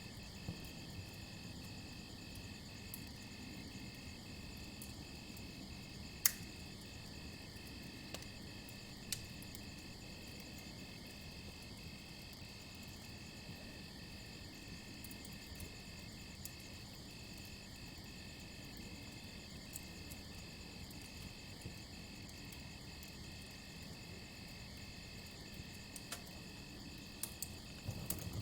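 Campfire crackling, a low steady burning hiss with occasional sharp pops: a loud one about six seconds in, another about three seconds later, and a few more near the end. Crickets chirp steadily throughout, a continuous high trill broken by short, evenly spaced pauses.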